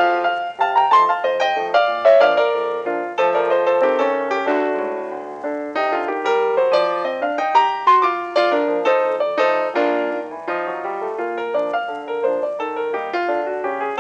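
Fast, bouncy piano music with many quick notes, in the manner of a silent-film accompaniment.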